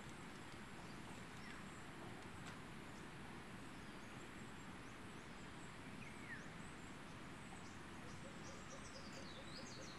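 Faint birds chirping over a steady outdoor hiss. A single falling chirp comes about six seconds in, and a quick run of high chirps with a light rapid ticking near the end.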